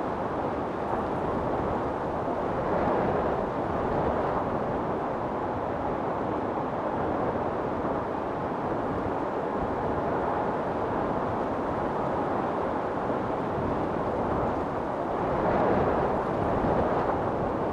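Storm wind blowing as a steady rush, with gusts swelling about three seconds in and again near the end.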